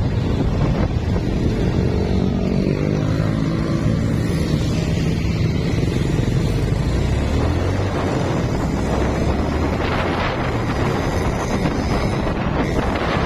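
Carburetted Honda Blade motorcycle's engine running while riding, under heavy wind noise on the microphone. The engine note shifts a few seconds in, then runs steady.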